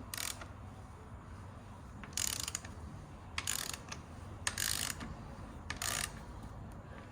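Ratchet wrench clicking in five short bursts about a second apart, as a bolt is run in during wheel fitting.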